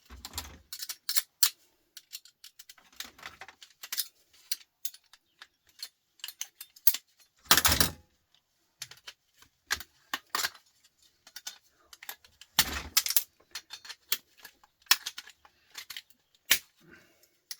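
Irregular clicks and clatter of small metal parts, screws and plastic being handled during a teardown of electronics, with louder clacks about eight seconds in and again about five seconds later.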